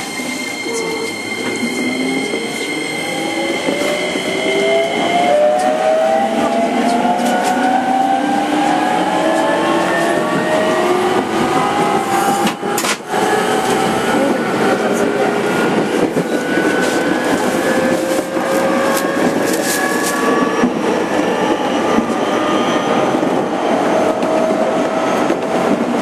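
Electric train motor car pulling away and accelerating: the 205-5000 series' VVVF inverter and traction motors whine in several tones that rise steadily in pitch, over rolling wheel and rail noise. Two steady high tones stop about five seconds in, and the sound dips briefly near the middle.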